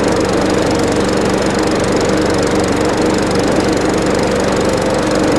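A 140cc MTD PowerMore engine on a walk-behind lawnmower running steadily at speed. The mower shakes hard, which the owner puts down entirely to the blade being out of balance, not a bent crankshaft.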